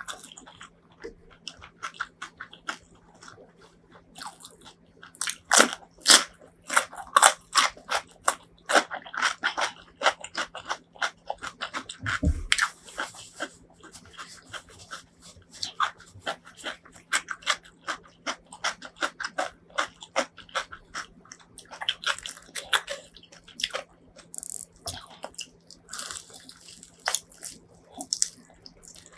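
Close-miked eating: bites, crunching and chewing with wet mouth clicks, in quick irregular runs. There is one low thump about twelve seconds in, over a faint steady hum.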